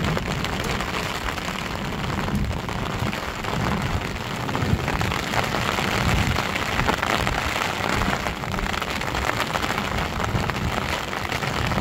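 Steady rain falling, a dense patter of many drops without let-up.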